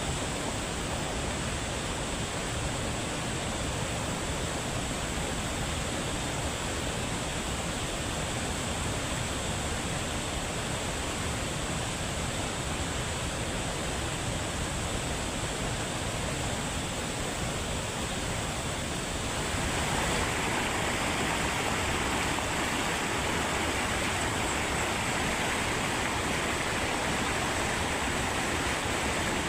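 Waterfall: a steady rush of falling water. It steps up louder and brighter about twenty seconds in.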